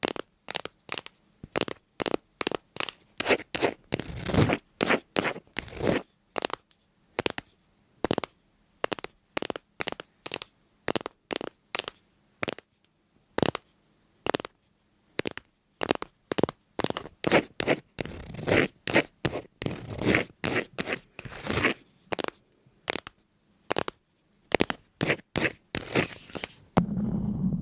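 A long series of short, dry scraping or crunching strokes, about two a second with brief silent gaps between them. About a second before the end, a steady low hum begins.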